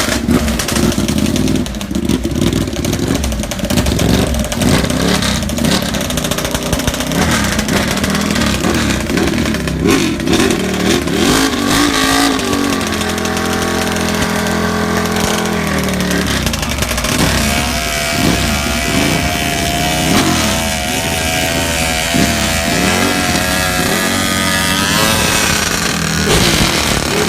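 Superbike engines revving and accelerating hard. Several times the pitch rises, then falls away.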